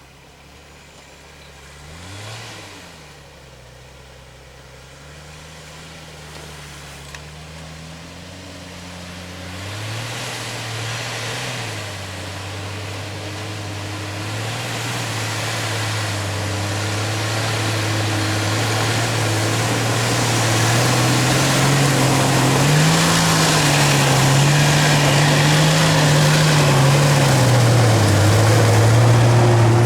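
Off-road 4x4's engine running and being revved up and down, growing steadily louder over half a minute.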